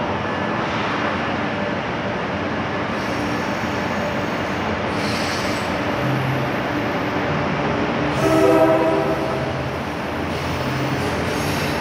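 Amtrak Acela Express electric trainset rolling along a station platform, with a steady rumble of wheels and running gear. A short train horn blast about eight seconds in is the loudest moment.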